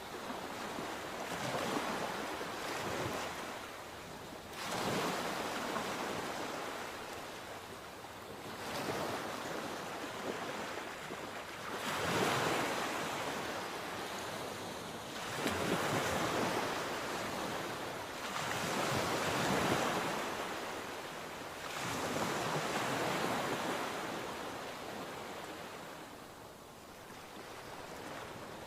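Sea waves breaking and washing on the shore, the surf swelling and ebbing every three to four seconds, with some wind on the microphone.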